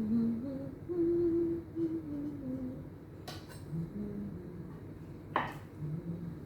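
A person humming a wandering tune while working, with two sharp clicks, one about three seconds in and one about five seconds in.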